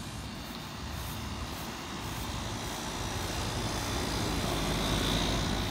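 A motor vehicle going by, its engine and tyre noise swelling to a peak near the end, then starting to fade.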